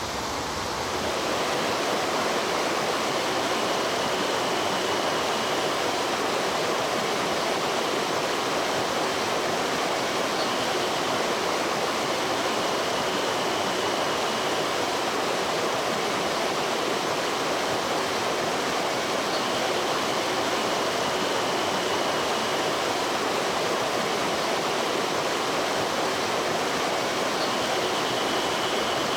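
Mountain stream water rushing steadily over rocks, an even, continuous flowing sound that rises slightly about a second in.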